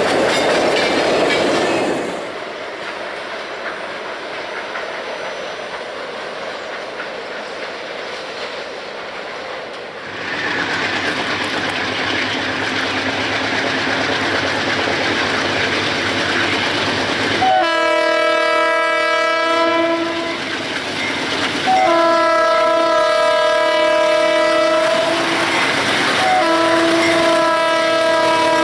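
Freight train running, growing louder about a third of the way in, then a locomotive's air horn sounding a chord of several notes in three long blasts.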